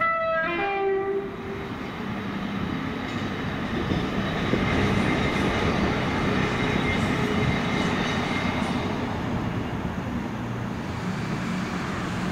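A train horn sounds two notes, a higher one then a lower one, in the first second or so. Then a train runs past with a steady rumble that grows louder over the next few seconds and stays loud.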